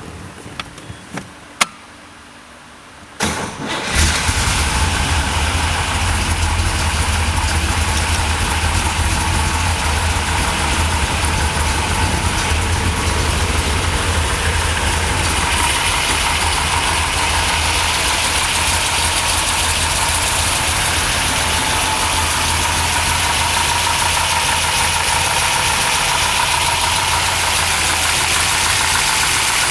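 1963 Corvette's fuel-injected 327 V8 started up: a few clicks, then the starter cranks about three seconds in and the engine catches within a second and settles into a steady idle.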